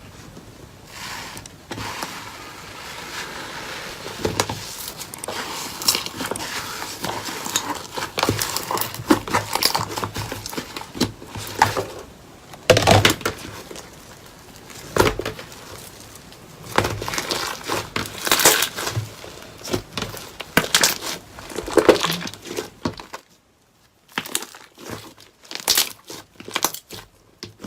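Slime being squeezed and pressed by hand, giving irregular crackling, crinkling and popping clicks, some much louder than others, with a brief quiet pause near the end.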